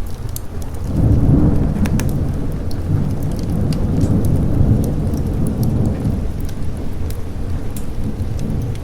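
A long roll of thunder swells about a second in and rumbles on, easing off near the end, over steady rain. Scattered sharp clicks sound throughout.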